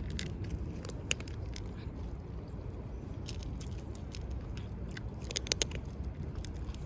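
A cat chewing food, with crisp crunching clicks that come in clusters, the thickest a little past five seconds in. Wind rumbles on the microphone underneath.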